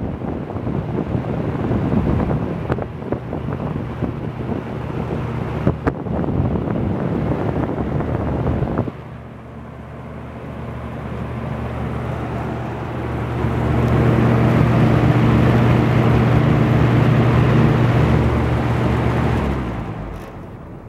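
Lakewood P223 box fan running on high, its airflow buffeting the microphone with gusty wind noise. About nine seconds in the buffeting stops abruptly and the fan's McMillan motor hum and the rush of its blades are heard steadily, then fade away near the end as the fan begins to spin down.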